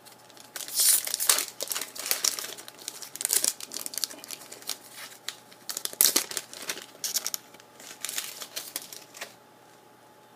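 Trading card pack wrapper being crinkled and torn open: a run of irregular crackling rustles that stops about nine seconds in.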